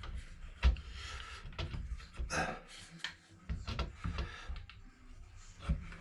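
Irregular knocks, clicks and rubbing as a motherboard is handled and clamped down, with the sharpest knock about a second in.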